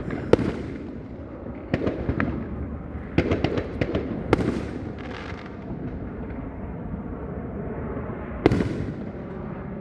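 Fireworks going off, a series of sharp bangs and crackles, some in quick clusters, with the loudest bang near the end and a steady rumble of distant bursts between them.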